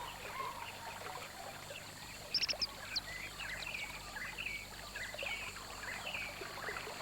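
Riverside ambience of small birds chirping and calling, scattered short chirps over a faint hiss. A brief cluster of sharper, higher calls comes about two and a half seconds in.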